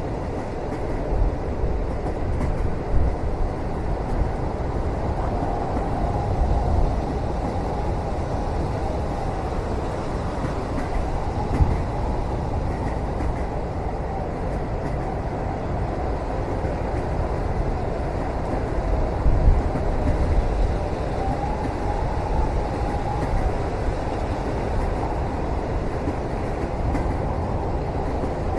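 Steady low rumble of a moving train heard from inside a passenger cabin, with a few soft knocks and jolts along the way and a faint wavering whine now and then.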